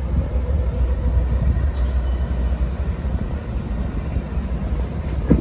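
Union Pacific freight train passing with a steady low rumble.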